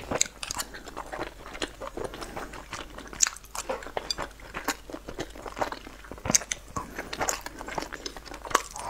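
A person biting and chewing boiled dumplings close to a clip-on microphone: many sharp, irregular mouth clicks.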